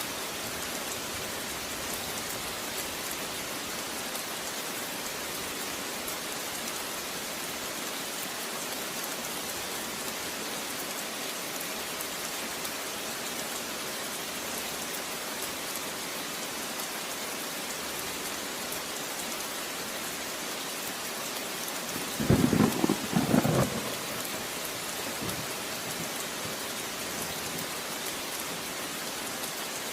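Steady rain falling. About three quarters of the way through, a short loud burst of thunder comes in two or three quick peaks lasting about a second and a half.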